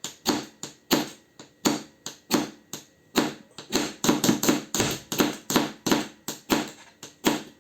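A knife blade scraped hard and fast down a ferrocerium fire-steel rod to throw sparks onto tinder, about three short rasping strokes a second.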